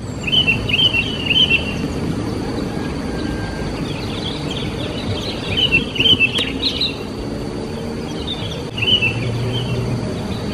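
Small songbirds chirping in several bursts of quick, high twitters over a steady outdoor background noise.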